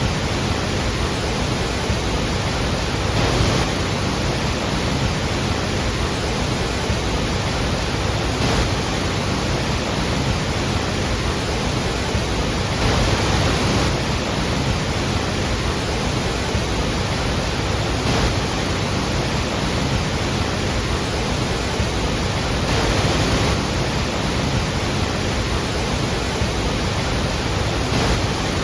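Iguazu Falls: a steady, dense rush of heavily falling water, swelling slightly now and then.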